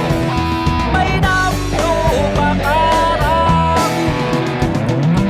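Lead guitar playing the song's melody, with bent and sliding notes, over a backing track of bass and drums.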